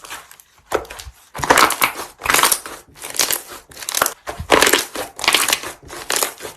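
Crunchy slime being squeezed and pressed over and over, a crackling crunch with each squeeze, about one every three-quarters of a second.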